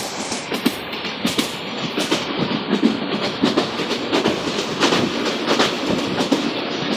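Rangpur Express passenger train running along the track: wheels clacking and knocking over the rails in irregular clicks over a steady rushing rumble of the moving carriages.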